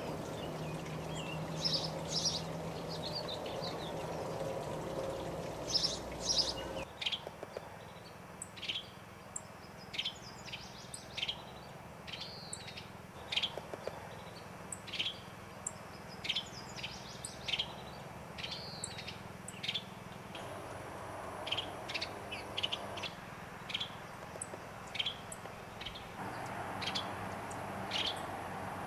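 Wild birds calling: short, sharp chirps repeated roughly once a second, with other bird notes over a steady background hiss. The background changes suddenly twice, as if from one recording to the next.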